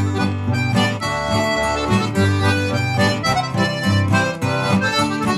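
Melodeon and guitar playing an instrumental break in a traditional-style folk song, the melodeon carrying the tune over strummed chords.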